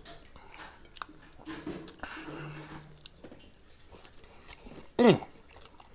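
A man chewing and biting into a double cheeseburger: quiet wet mouth clicks and chewing, with a low hummed 'mm' in the middle. About five seconds in, a short, louder vocal sound drops in pitch, the loudest thing in the stretch.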